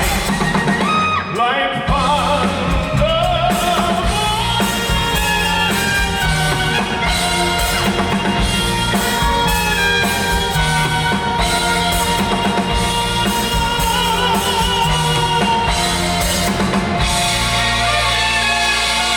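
Live band music with a drum kit keeping a steady beat under a full pitched accompaniment, with a wavering held melody line in the first few seconds.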